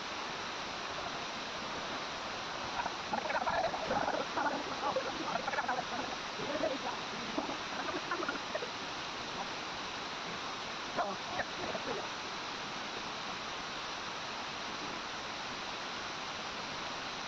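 Waterfall: a steady rush of falling water. Brief, irregular louder sounds rise above it from about 3 to 8 seconds in and again around 11 seconds.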